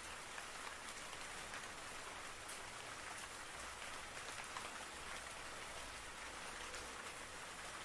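Faint steady rain with scattered soft drop ticks.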